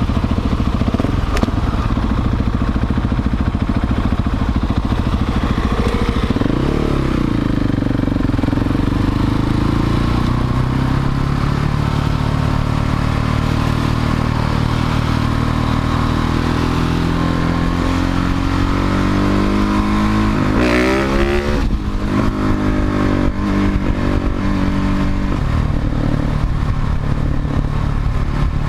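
Husqvarna 701 Supermoto's single-cylinder engine running through a Leo Vince slip-on exhaust while riding, its pitch shifting with throttle and gear changes about 7 seconds in and again around 21 seconds.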